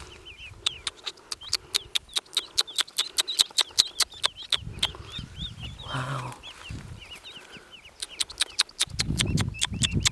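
Ducklings peeping: many short, high chirps in quick succession, over a fast run of sharp clicks that are louder than the peeps. Low rumbling noise rises near the end.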